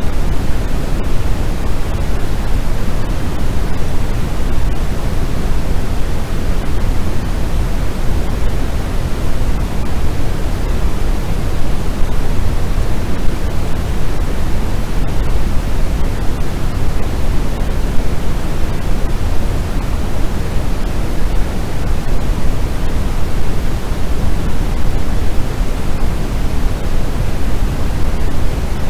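Steady, unbroken white noise: a loud, even hiss with no tones or events, heaviest in the low end and thinning toward the top, much like pink noise.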